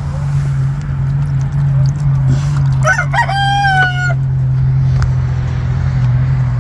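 A rooster crows once about three seconds in, a single call of a little over a second, over a steady low hum.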